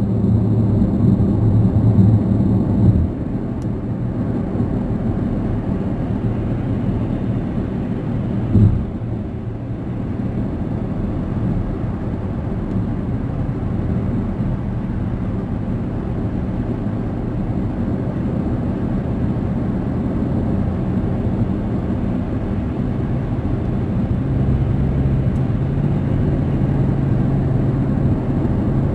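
Steady road and engine noise heard inside a moving car's cabin: a low rumble, with a short thump about eight and a half seconds in.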